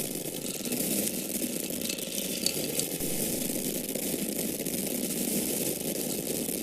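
Dry grains of corn falling in a steady stream: a dense, continuous run of many tiny clicks from small kernels striking, with a couple of slightly sharper ticks about two and a half seconds in.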